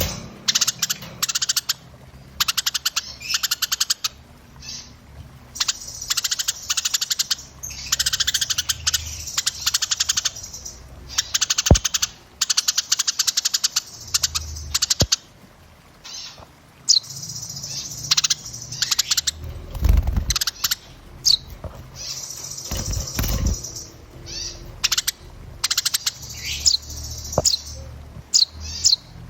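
Small songbirds ('burung cilik') singing densely: rapid trills and chattering chirp series, broken by short pauses and sharp whistled upswept notes in the latter half. Low rumbles come twice, about 20 and 23 seconds in.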